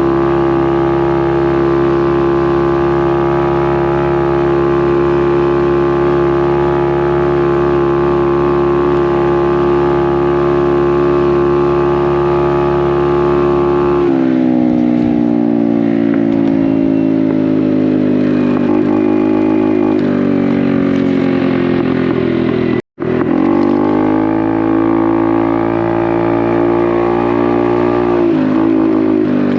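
Honda Navi's small single-cylinder engine through a Vance & Hines aftermarket exhaust, holding a steady note at cruising speed. About halfway through the note drops, then rises and falls with the throttle. The sound cuts out for an instant a little past two-thirds of the way.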